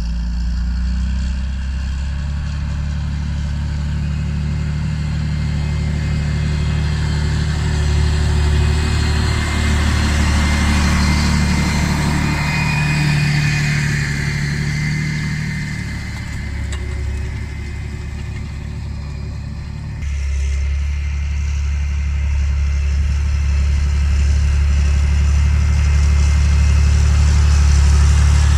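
John Deere 8530 tractor's six-cylinder diesel engine running steadily under load at about 1300 rpm while pulling a six-furrow plough, a continuous low drone. The sound changes abruptly about two-thirds of the way in.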